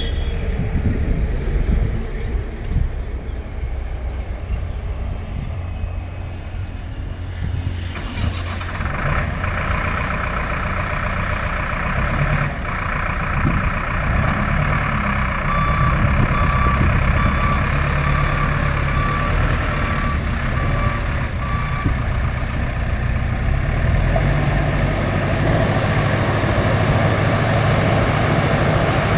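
Backhoe loader's diesel engine running steadily, growing louder and fuller about a third of the way in as the machine works. A repeated short beep sounds for several seconds near the middle.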